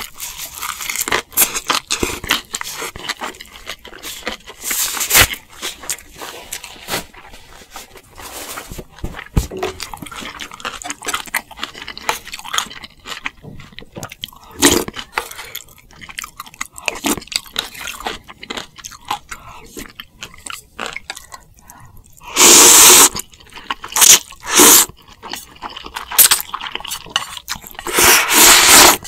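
Close-miked eating: steady chewing and crunching of food, with short wet clicks throughout. Two longer, much louder noisy stretches come in, one about three-quarters of the way through and one near the end.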